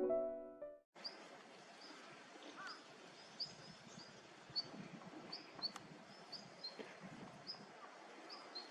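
Small birds chirping over and over in short, high calls about once a second, against a faint steady outdoor hiss. A piano tune ends just before the outdoor sound comes in, about a second in.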